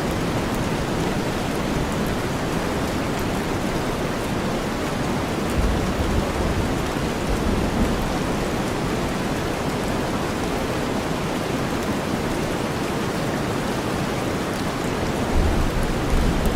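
Steady rain mixed with deep white noise, an even hiss across the whole range. A low rumble of thunder swells about six seconds in and another begins near the end.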